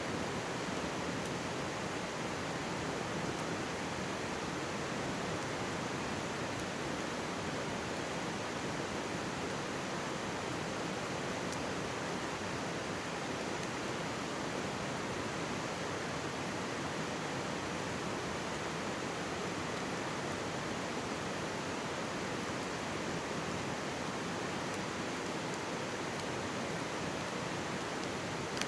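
Steady rushing and babbling of a mountain stream, with a few faint crackling ticks from a campfire.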